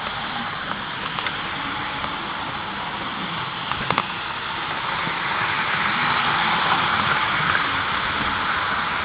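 HO scale model diesel locomotive running on the track: a steady hissing rumble of motor and wheels that grows louder about halfway through, with a few sharp clicks, the loudest about four seconds in.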